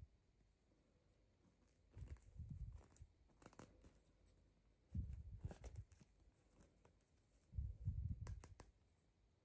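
Faint handling noises from hands working with toys and packaging: three short bouts of low bumps with light clicks and rustles, about two, five and eight seconds in.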